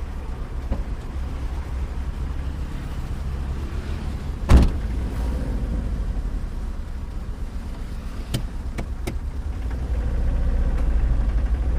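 Low, steady engine and road rumble of a moving truck heard from inside the cab, growing a little louder near the end. A single loud thump comes about four and a half seconds in, and a few sharp clicks follow some four seconds later.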